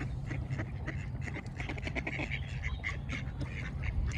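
A duck quacking in a rapid series of short calls, several a second.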